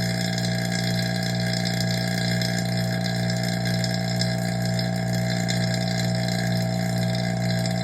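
Oil-sealed vacuum pump running with a steady, even drone while it pulls a vacuum on a DIY vacuum-furnace chamber down toward about −29.5 inHg.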